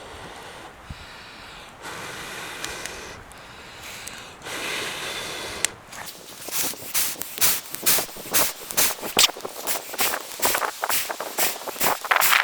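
Someone blowing on a hot coal set in a wooden spoon blank to burn out the bowl. There are two long steady breaths, then a run of short quick puffs about two a second.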